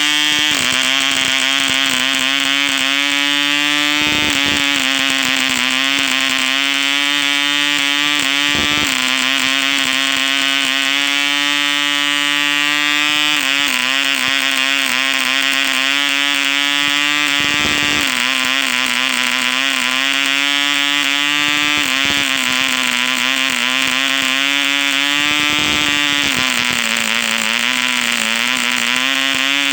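ED Mk2 1cc model diesel engine running fast with an 8x4 propeller: a loud, steady high-pitched buzz that wavers slightly, its pitch dipping briefly every four to five seconds.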